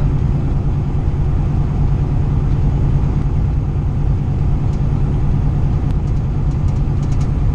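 Steady low drone of a semi truck's engine and road noise heard inside the cab while cruising on the highway.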